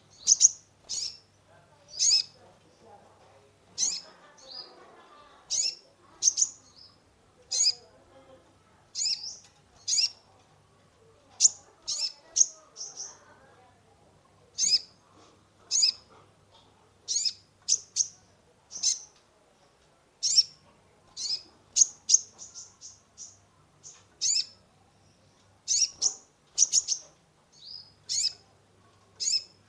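Kolibri ninja sunbird calling: short, sharp, high-pitched chirps repeated every second or two, often in quick pairs or little clusters.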